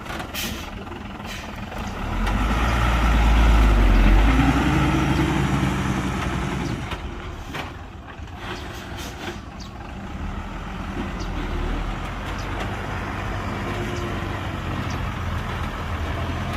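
Heavy diesel engine of construction machinery running, swelling to a loud rumble about two to four seconds in and then easing back to a steady run. A few short knocks come near the start and again about halfway through.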